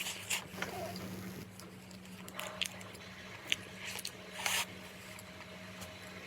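Scattered small clicks and short rustling bursts of someone handling food and eating, over a steady low electrical hum.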